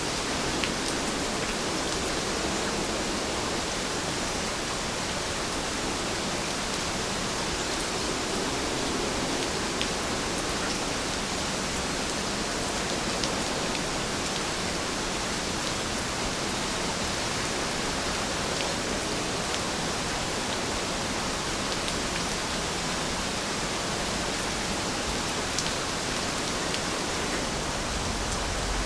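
Heavy rain falling steadily, a constant hiss with occasional sharper drop ticks.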